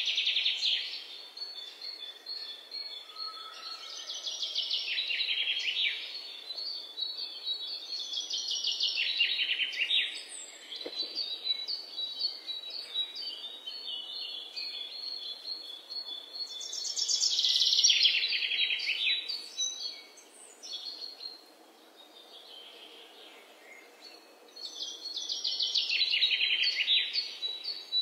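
Birds singing: loud, rapid high trills that sweep downward in pitch, recurring every several seconds, with fainter chirps between them.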